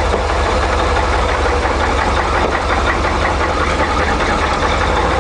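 Isuzu NPR box truck's gasoline 5.7-litre V8 idling steadily with a knock, which the owner says is a motor problem that needs repair.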